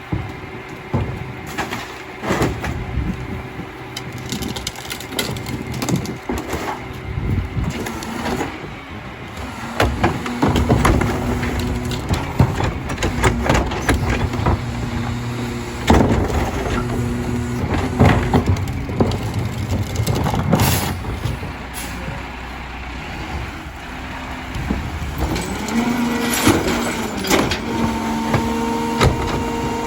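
Mack LR rear-loader garbage truck with a Heil DuraPack 5000 body at work. Its engine and hydraulics give a steady pitched hum under repeated sharp bangs and clatters as carts are dumped into the hopper. The hum gets stronger and higher-toned near the end.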